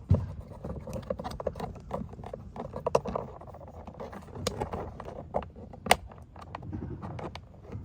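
Phillips screwdriver working a screw in a car door panel: irregular clicks, knocks and scrapes of the metal tip and plastic trim as it turns, with a couple of sharper clicks. The screw keeps spinning in place instead of backing out.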